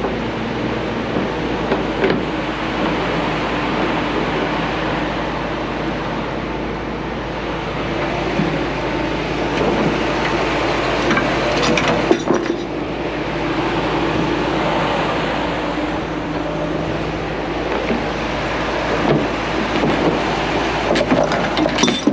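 A large truck engine running steadily at a constant speed, with a couple of sharp knocks, one about halfway through and one near the end.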